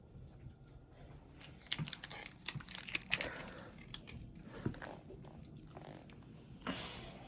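Crinkling and rustling handling sounds: a run of crackly clicks near the middle, a soft thump, then a short rustle near the end.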